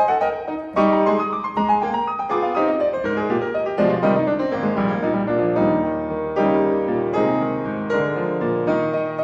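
Piano music: a background track of notes and chords played at a moderate pace.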